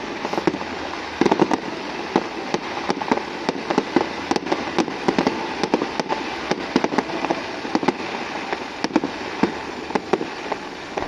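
Fireworks going off in quick succession, many sharp bangs a second over a continuous crackle.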